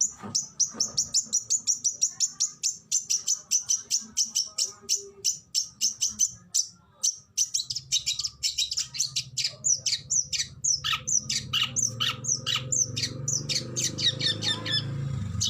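Oriental magpie-robin (kacer) singing a rapid run of short, sharp, high notes, about five or six a second. After about eight seconds, many of the notes become steep downward sweeps.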